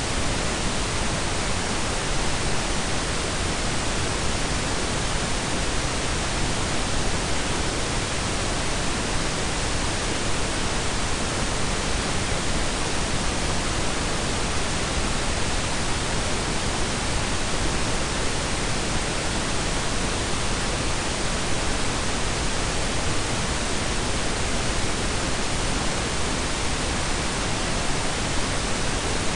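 Steady blend of synthetic pink and brown noise: an even, unchanging hiss with a deep rumble beneath it.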